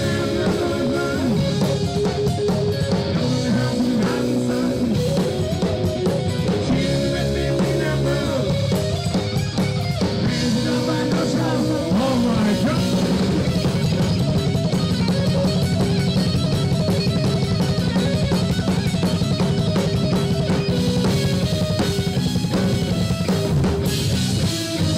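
Live rock band playing an instrumental passage: electric guitar, bass and drum kit, with a steady beat.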